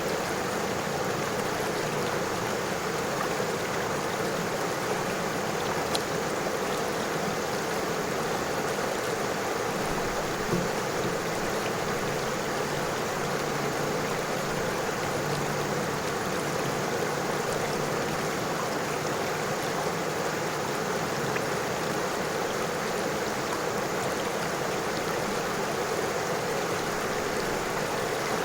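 River water flowing over stones in a steady, unbroken rush.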